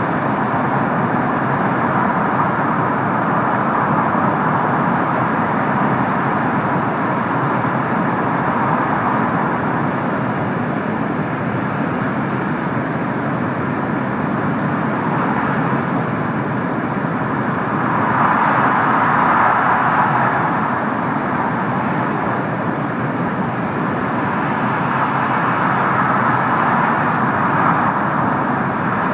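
Cabin running noise of an N700-series Shinkansen at speed: a steady rushing rumble that swells briefly about two-thirds of the way through.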